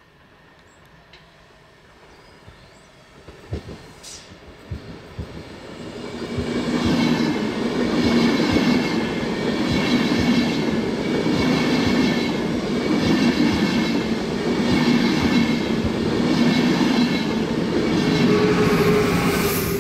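Train approaching and passing close by: first a few faint wheel clicks, then about six seconds in a loud rumble with a low hum and a rhythmic clatter of wheels over rail joints, repeating about every second and a half.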